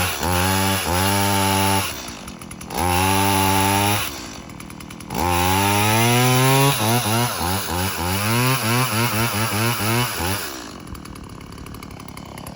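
Gas chainsaw revving hard in three bursts, its pitch rising and falling between them, then running at a lower, wavering speed before dropping back much quieter near the end.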